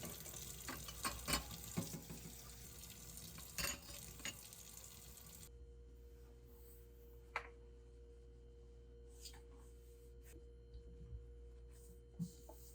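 Kitchen cooking sounds: scattered light clicks and clinks of utensils and dishes over a soft hiss, which cuts off suddenly about halfway through. A steady hum continues with a few more isolated clicks.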